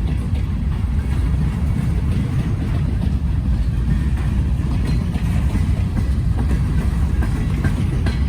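Freight train rolling past: a steady heavy rumble of wheels on rail, with faint clicks of the cars going over the joints.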